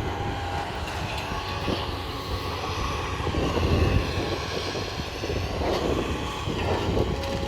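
A demolition excavator's diesel engine and hydraulics running with a steady drone, swelling a little louder about three to four seconds in.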